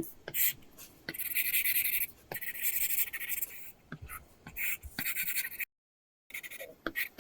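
Apple Pencil drawing on an iPad fitted with a paper-texture screen protector: scratchy sketching strokes lasting about a second each, with light taps of the pencil tip in between. Partway through, the sound drops out completely for about half a second.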